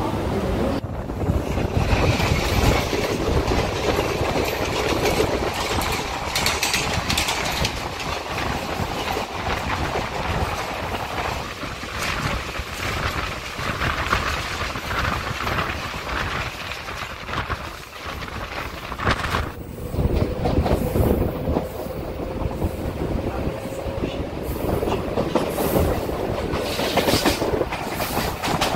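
Mumbai suburban electric local trains running: steady rumble of wheels on rail with repeated clacking, heard from an open coach doorway as another local runs close alongside. A faint whine holds for a few seconds about two-thirds of the way through.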